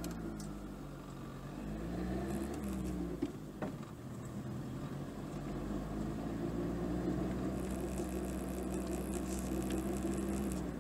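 Car engine heard from inside the cabin while driving, its note rising and falling twice in the first few seconds, then holding steady before easing off near the end, with a couple of short clicks about three seconds in.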